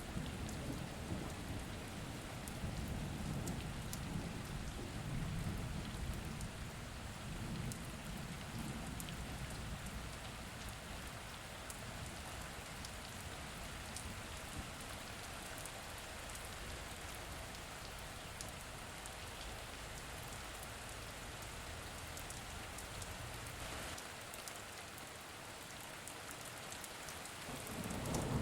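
Steady rain falling, with a fine patter of individual drops. A low rumble of distant thunder rolls through the first third and fades, and a new roll of thunder starts to build near the end.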